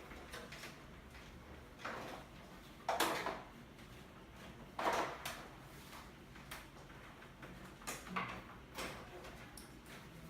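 A few short knocks and scrapes of objects being handled. The loudest comes about three seconds in and another about five seconds in, with fainter ones around them.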